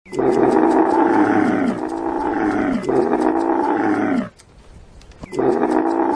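A large animal calling loudly: three roaring calls in a row, each dropping in pitch at its end, then a fourth after a short pause.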